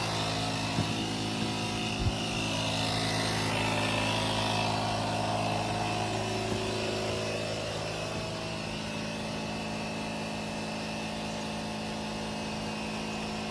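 Air compressor of a DeWalt power box running steadily, inflating a tractor tire, with an even motor hum. A couple of light clicks come in the first two seconds.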